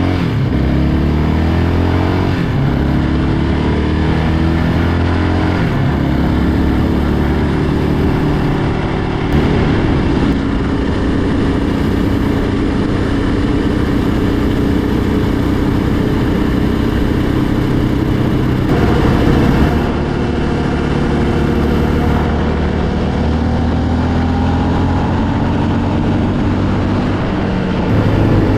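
Yamaha Raptor 700R quad's single-cylinder engine being ridden, its pitch climbing through each gear and dropping back at the shifts, several times over.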